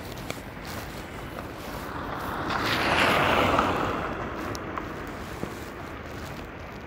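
A vehicle passing on a wet, slushy street: its tyre hiss swells up, peaks about three seconds in and fades away over the next second or so, over a steady background of rain and street noise.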